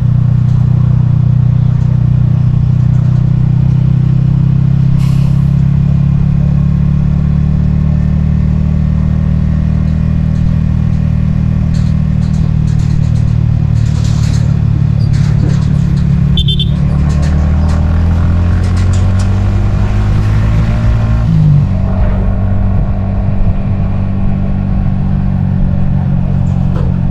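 Yamaha XSR155's single-cylinder engine running under way, heard from the rider's helmet. The engine pitch climbs for a few seconds past the middle, then drops abruptly, with a few brief clicks scattered before it.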